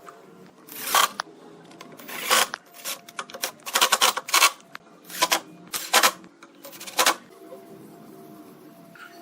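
A series of irregular sharp knocks and clicks, clustered between about four and seven seconds in, over a faint steady hum.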